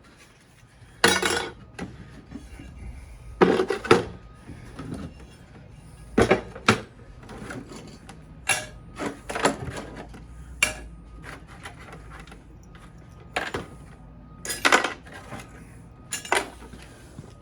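Small pieces of scrap metal clattering and clinking as they are handled and dropped into a bucket: about ten separate sharp knocks and rattles, some in quick pairs.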